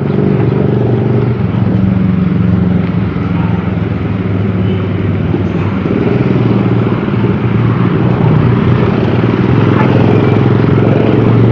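A motor vehicle engine, most like a motorcycle's, running steadily at an even pitch.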